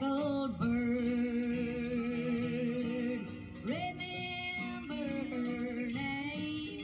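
A singer holding two long notes with vibrato, over an instrumental backing with guitar.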